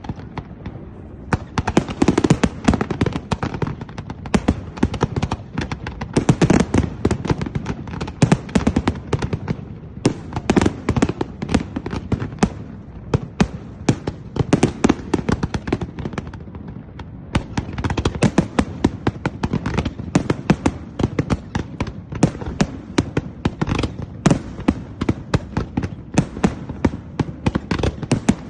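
Fireworks display: a dense, continuous rattle of sharp cracks and pops over a low rumble of bursting shells, thinning briefly a few times before picking up again.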